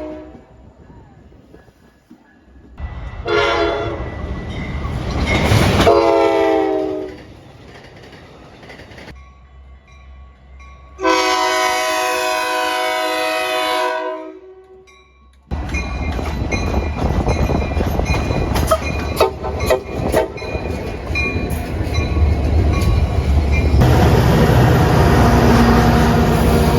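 Locomotive horns sounding in short clips: a brief chord, then one that falls in pitch as the train passes, then a longer steady blast. After that a train rolls by, its engine running and its wheels clicking over the rail joints.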